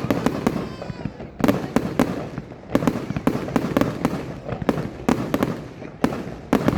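Fireworks going off: clusters of sharp bangs and crackles, a fresh burst about every one to two seconds.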